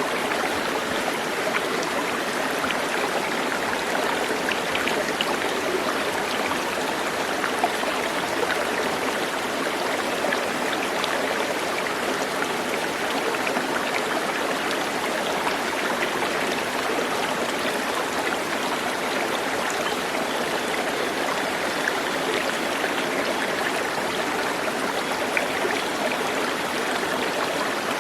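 Flowing water, like a stream, running steadily with an even rushing sound.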